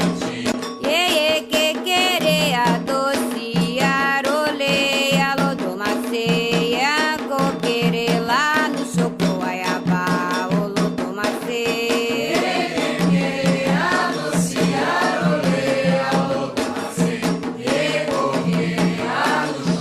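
Candomblé Ketu chant to Xangô: voices singing in Yoruba over drums and a fast, dense rattle of percussion clicks.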